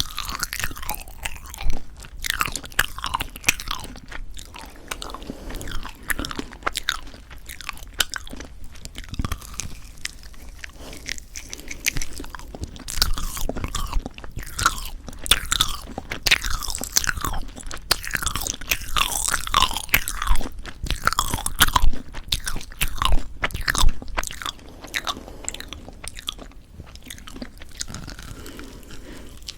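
Close-miked chewing and biting of a tough, rubbery marshmallow pop, with continual wet clicks and short squeaks that slide in pitch; the marshmallow has gone chewy, likely from poor storage.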